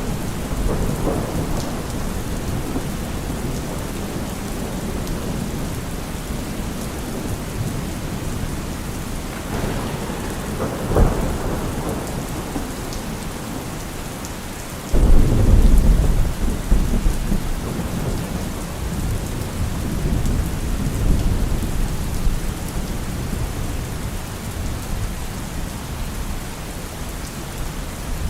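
Steady heavy rain, with a sharp crack about 11 seconds in. About halfway through comes a sudden loud, low rumble of thunder that fades away over several seconds.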